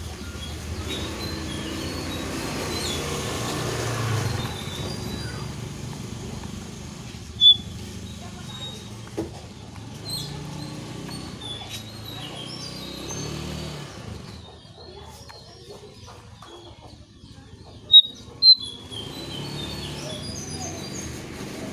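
Lesser shortwing (cingcoang coklat) calling: scattered short, high chirps, with two sharp, loud notes in quick succession near the end, over a steady low rumble.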